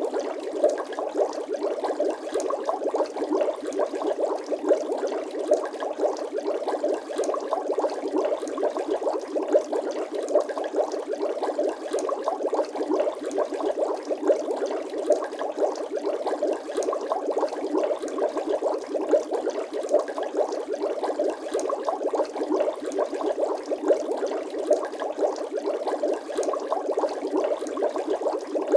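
Bubbling-water sound effect: a dense, steady stream of small bubbles gurgling and popping, with frequent sharper pops standing out.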